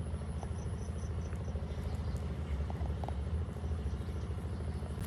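Steady low machine hum with a faint run of high chirps in the first second and a half.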